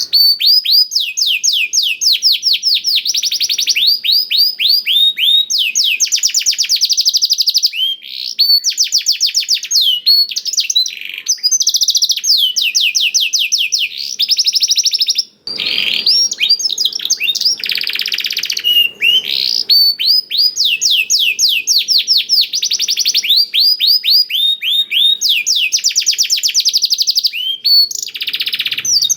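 Domestic canary singing a long song of rapid trills, fast runs of repeated down-sweeping notes that change speed from phrase to phrase, in the blackthroat style it has been taught. The song breaks off briefly about halfway through, then carries on.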